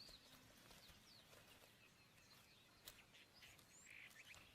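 Near silence: faint natural ambience with a few small, high bird chirps and a soft click about three seconds in.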